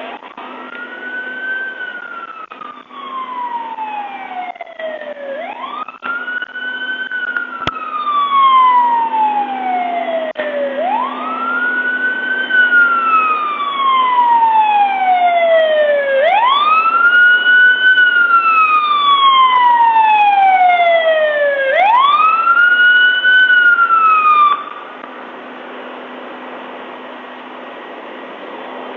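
An emergency vehicle's siren wailing, each cycle rising quickly and falling slowly over about five seconds. It grows louder as it approaches and then cuts off abruptly near the end, leaving a low steady hum.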